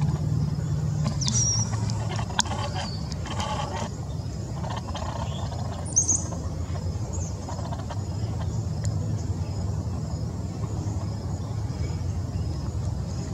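Outdoor backyard ambience: a steady low rumble, with a few short, high, falling bird chirps about a second in and again around six and seven seconds.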